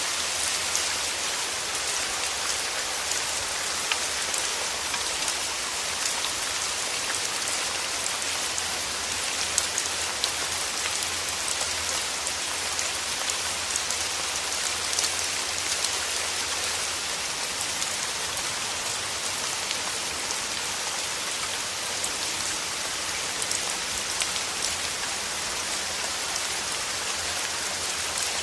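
Steady rain falling, a dense even hiss dotted with many small, sharp drop ticks.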